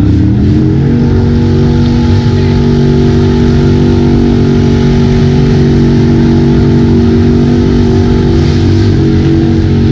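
Truck engine revving hard: its pitch climbs in the first second, then holds steady at high revs under load.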